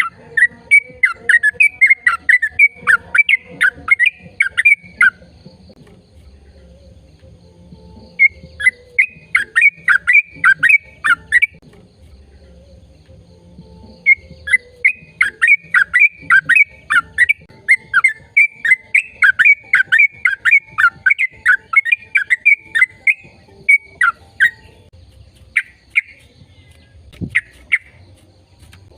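A bird calling in fast runs of short, sharply falling chirps, about five a second, in three long bouts with pauses between them and a few scattered notes near the end.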